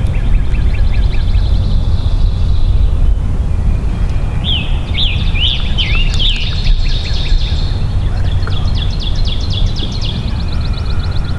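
Several songbirds singing: fast trills of repeated high notes and a burst of loud swooping chirps about halfway through, over a steady low rumble.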